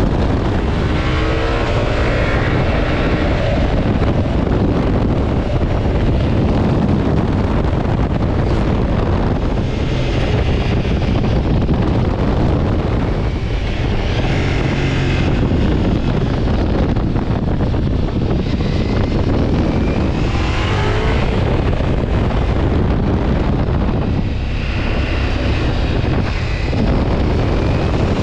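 Motorcycle riding at speed, heard from a helmet-mounted camera: a steady rush of wind over the microphone with the engine running beneath. The engine's pitch rises a couple of times as it accelerates.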